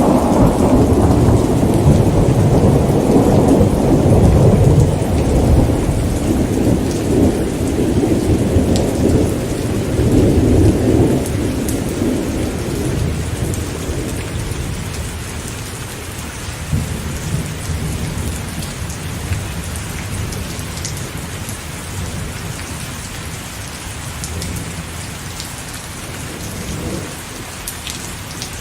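Steady rain falling, with a long rumble of thunder that rolls for the first ten seconds or so and then fades away, leaving the rain.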